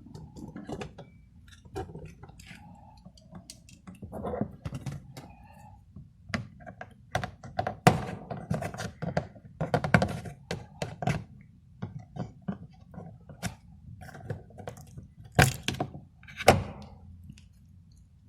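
Hand tools and parts being worked on a car door, heard as irregular clicks, taps and knocks. There are louder thunks about 8 and 10 seconds in, and two more near the end.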